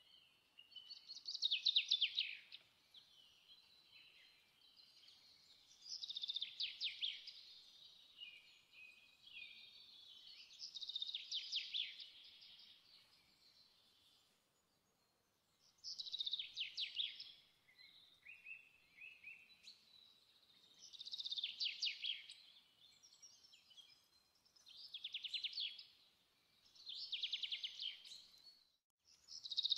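A songbird singing short phrases of rapid, high-pitched trilled notes, one every few seconds.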